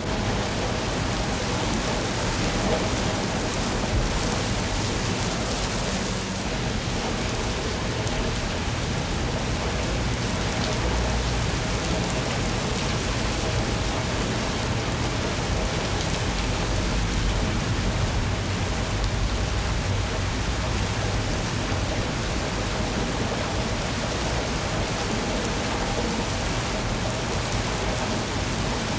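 Steady rain falling on a surface, an even hiss with no breaks, and a low rumble underneath that swells now and then.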